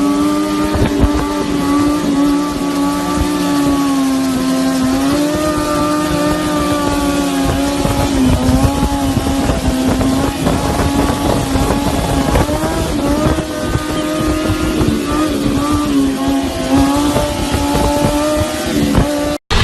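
Motorcycle engine running at high revs, its pitch holding fairly steady with small dips and rises as the throttle is worked. The sound cuts out abruptly for a moment just before the end.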